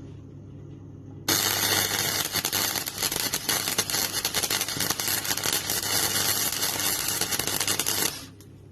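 Wire-feed (MIG) welding arc crackling and sizzling steadily for about seven seconds as a bead is run on car-body sheet metal. It starts abruptly about a second in and cuts off shortly before the end, over a low steady hum.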